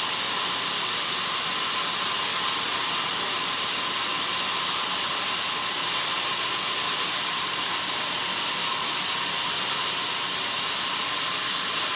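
Sawmill band saw cutting through a log: a loud, steady, high-pitched hiss of the blade in the wood.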